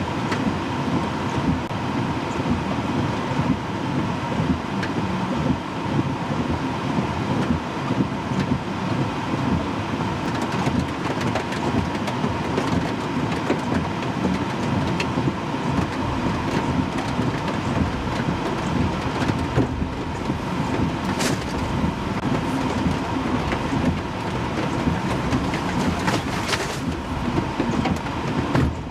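Continuous wind roar of a tornado, heard as a train-like rumble with many small crackles throughout and a faint steady tone running under it.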